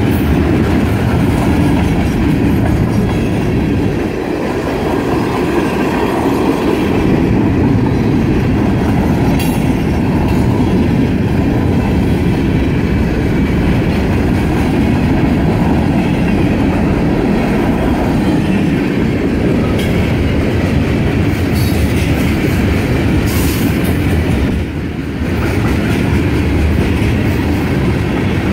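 Freight cars of a long mixed freight train rolling past at close range: a steady, loud rumble of steel wheels on rail with clickety-clack over the rail joints. A few brief high-pitched sounds from the wheels come in the second half.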